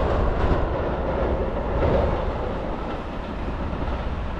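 Train crossing a steel girder railway bridge: wheels clattering over the rail joints for the first half-second, then a steady running noise that slowly fades.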